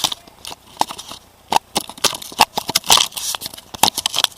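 Irregular clicks, knocks and rustling of a camera being handled and set down.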